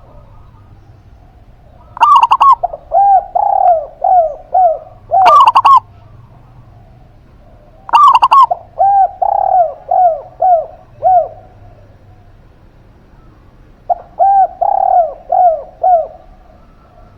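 A dove cooing in three phrases, about 2, 8 and 14 seconds in. Each phrase opens with a couple of loud, higher notes and runs into a quick series of short, arched coos.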